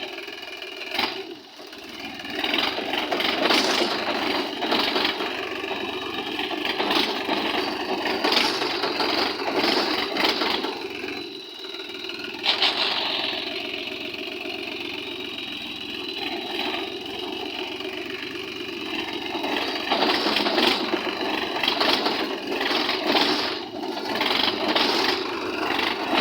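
Tractor engine working under load, its revs rising and falling, as the tractor tries to back out of a furrow where its plough has dug in and bogged it down.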